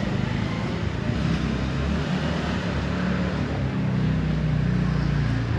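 A motor vehicle's engine running with a low rumble, over street noise. It grows steadier and fuller from about two seconds in and eases off just before the end.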